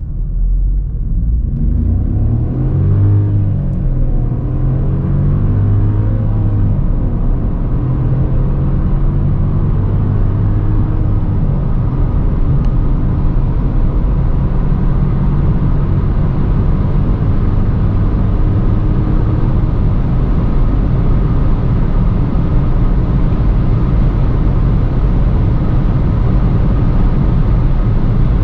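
Skoda Fabia 1.0 TSI's turbocharged three-cylinder petrol engine at full-throttle acceleration. In the first several seconds its note climbs and drops back with each quick upshift of the 7-speed DSG gearbox, then settles into a steadier drone mixed with road and wind noise as speed builds.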